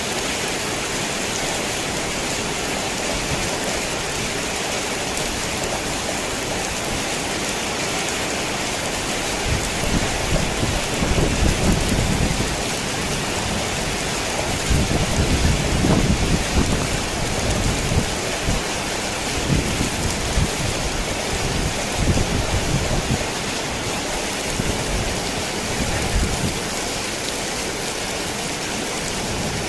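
Torrential rain falling on a worn tin roof as a steady hiss. About a third of the way in, thunder starts rumbling low in uneven surges for some fifteen seconds before it dies back under the rain.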